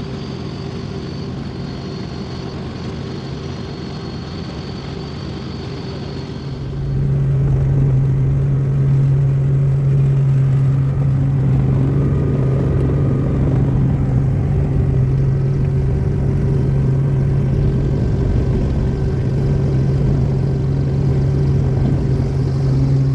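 Helicopter engine and rotor noise, steady: a high whine over a drone at first, then about seven seconds in it turns suddenly louder and deeper, a heavy steady drone.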